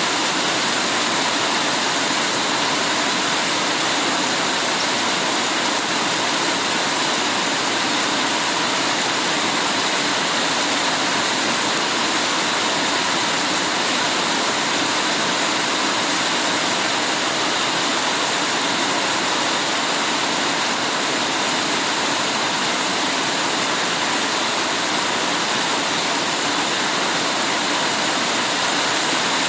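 Heavy rain falling steadily, a dense, even hiss of water that does not change.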